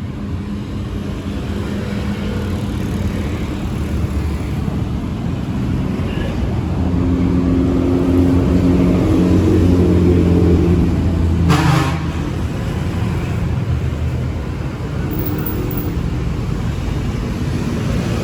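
Street traffic: motor vehicle engines running past, one growing louder to a peak around ten seconds in and then fading, with a short sharp noise just before the twelve-second mark.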